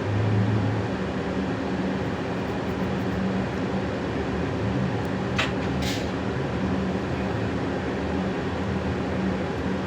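Scania K320 hybrid bus running, a steady drone with a low hum. Two short hisses about five and a half and six seconds in.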